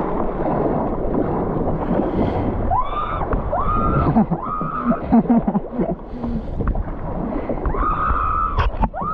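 Water gurgling and splashing around a kayak, with wind buffeting the action camera's microphone. A few short, distant voice-like calls rise and fall over it about three seconds in and again near the end.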